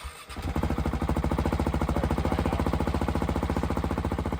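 Motorcycle engine running with an even, fast pulse of about a dozen beats a second. It comes in about a third of a second in.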